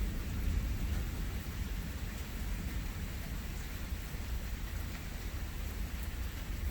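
Steady rain falling, with a low rumble of thunder underneath that is a little stronger at the start and eases slightly.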